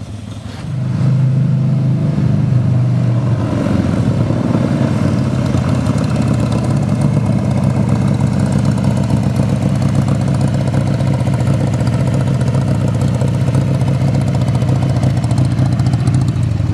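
Motorcycle engine running at a low, steady speed, getting louder about a second in and then holding a steady hum.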